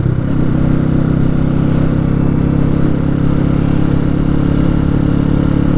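Motorcycle engine running at a steady cruising speed on the highway, an even low drone that holds one pitch throughout.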